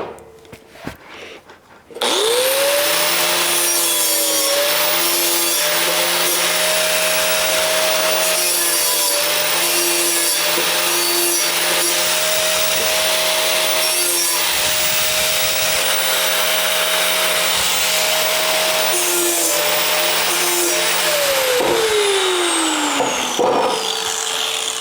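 Power grinder spinning up, grinding steel to widen a tight slot in a metal rack, then winding down with a falling whine near the end.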